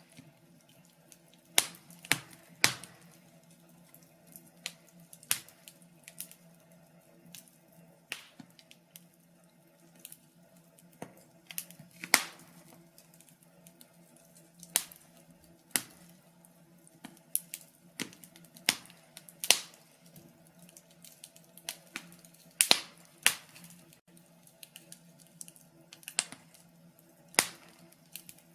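Fire in a fireplace crackling, with sharp, irregular pops and snaps, some coming in quick clusters, over a faint steady low hum.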